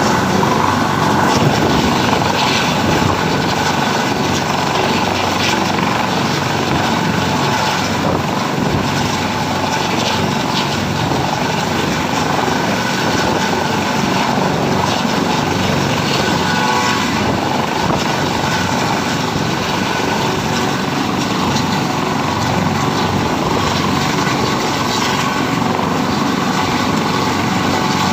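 Helicopter running steadily, its rotor and engine making a loud, even noise throughout.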